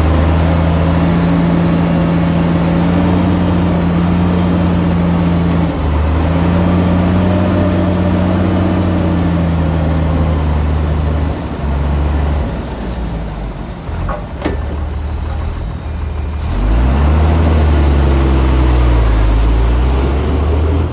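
Heavy diesel engine of an earthmoving machine running hard under load. It eases off about halfway through, with a few sharp knocks, then revs up again strongly for the last few seconds.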